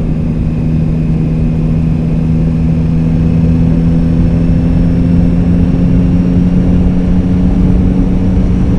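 Yamaha XSR900GP's inline-three engine running at a steady cruise, its note creeping slightly higher, with heavy wind rumble on the microphone.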